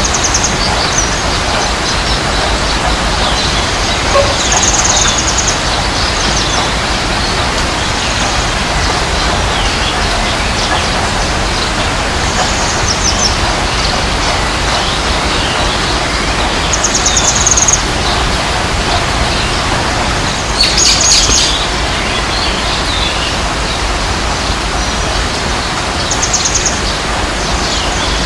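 Small birds chirping and trilling in short, scattered bursts over a steady rushing background noise.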